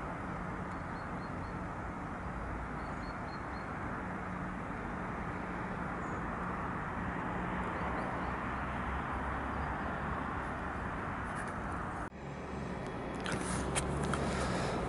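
Train running on the line some distance off, a steady low rumble and hiss; about twelve seconds in the sound cuts off and gives way to similar station background with a few short clicks.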